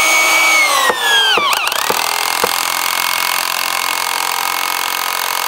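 Electric drill/driver running at speed to drive screws into wood framing. Its motor whine drops sharply in pitch about a second and a half in as it bogs down under load, then it carries on with a steady whir.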